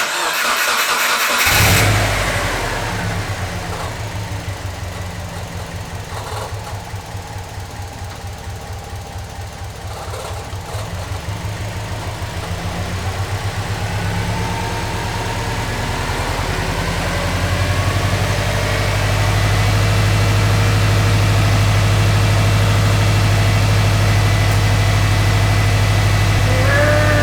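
2005 Subaru Forester XT's turbocharged flat-four engine cranking briefly and catching, its first start after the air conditioning system was removed. It then runs with a pulsing, uneven beat, and about eighteen seconds in it grows louder and steadier.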